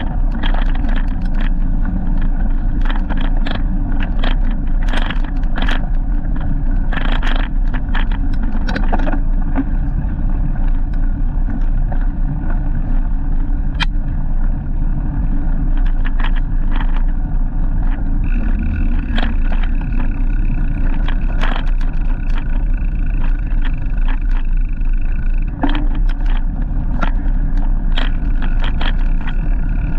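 Riding noise on a moving bike-mounted camera: heavy low wind rumble on the microphone with frequent rattling clicks and knocks, and a steady high whine from about 18 to 26 seconds in.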